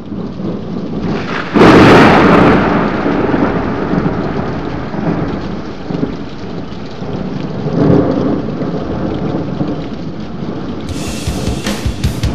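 A thunder-like rumble over a steady rain-like hiss. A loud crack about one and a half seconds in fades away over several seconds, and another swell comes about eight seconds in. Near the end, music with drum hits comes in.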